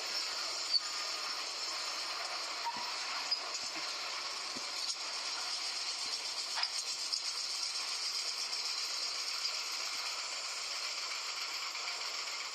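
Steady hissing train noise with light rattles and a few scattered clicks and knocks.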